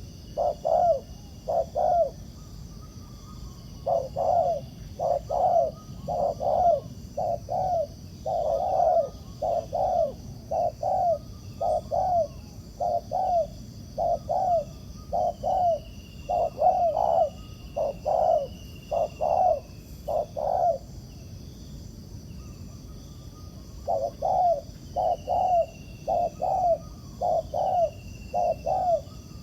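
Spotted doves cooing: short, rapid coo notes repeated in long runs, with a pause of about three seconds about two-thirds of the way through before the cooing resumes.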